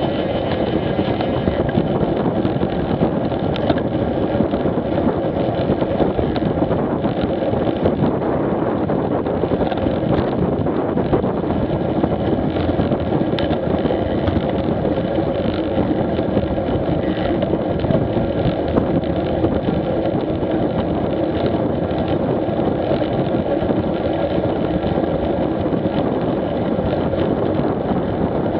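Motorcycle engine running steadily at cruising speed, mixed with wind rush, with no gear changes or revving.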